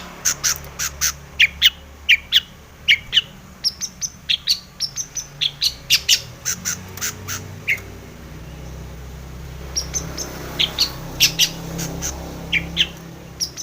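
Long-tailed shrike (cendet) singing a rapid run of sharp, short chirps, several a second. It pauses for about two seconds a little past halfway, then resumes.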